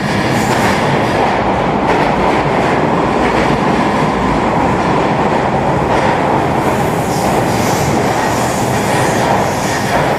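Eurobahn regional train running steadily, a continuous rumbling roar of wheels on the rails, with a faint higher hiss coming and going in the second half.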